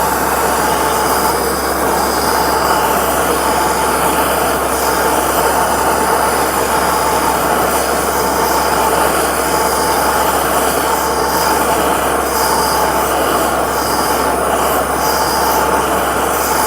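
Steady, unbroken rushing blast of the heating tool playing on the gearbox's fifth gear to free it from the shaft.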